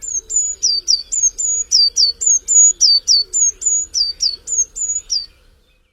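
A small songbird singing a fast, repeated two-note phrase, a high held note dropping sharply to a lower one, about three times a second. It stops abruptly near the end.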